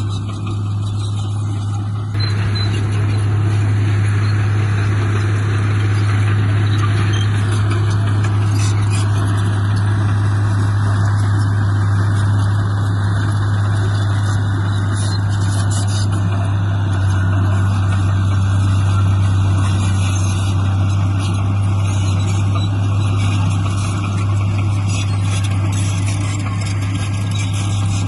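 Heavy construction machine's diesel engine running steadily with a deep hum, working harder from about two seconds in.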